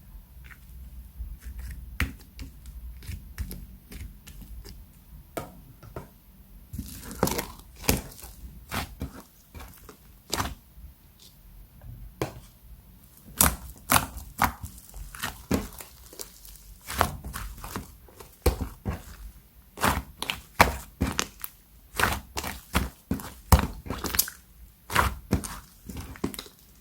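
Slime being squeezed and pressed by hand, giving many sharp crackles and pops. They come sparsely at first, then quickly and loudly from about seven seconds in.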